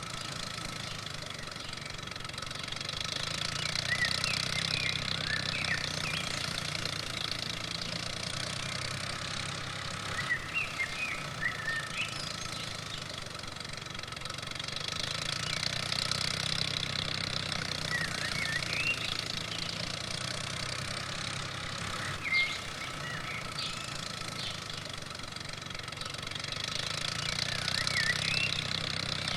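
Small engine running steadily, swelling and easing in level about every twelve seconds, with short high chirps scattered over it.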